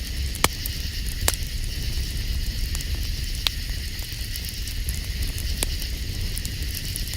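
Campfire burning with a steady hiss and a few sharp crackles and pops.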